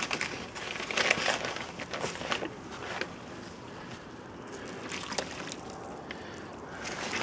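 Water sloshing and scraping in a container as mortar is mixed, with irregular small knocks.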